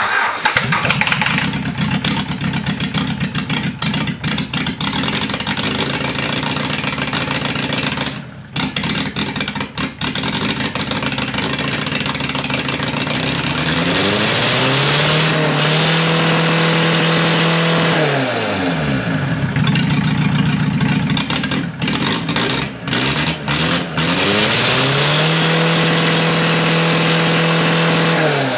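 Mazda 1.7-litre diesel engine running just after a cold start on starting spray, firing unevenly with a couple of brief stumbles. It is then revved up twice, each rev held for a few seconds before dropping back to idle. It is a worn engine that the owner says blows oil by.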